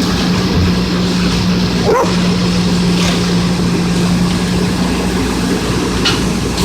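Autocar ACX garbage truck with a Heil body running steadily through a pickup, with a constant low hum from the engine. About two seconds in comes a short yelp, like a single dog bark.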